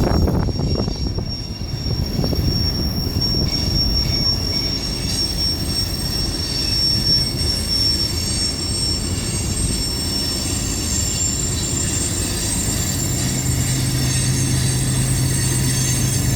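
BNSF freight train rolling across a trestle: a steady low rumble of cars on the rails with high-pitched wheel squeal running over it. A low steady hum joins about thirteen seconds in.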